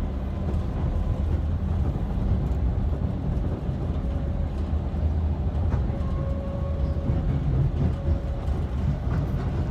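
V/Line passenger train running at speed, heard from inside the carriage: a loud, steady low rumble, with a faint high whine that comes and goes in the middle.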